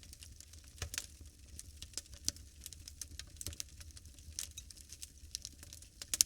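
Wood fire crackling with irregular sharp pops, one louder pop near the end, over a steady low rumble.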